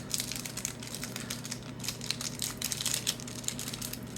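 Trading cards and a foil pack wrapper being handled: a run of quick, light clicks and crinkling as the pack is worked open and the cards are flicked through.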